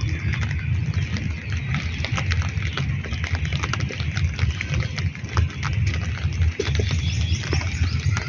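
Monsoon rain falling, with many close drops ticking over a steady hiss and a strong, uneven low rumble underneath.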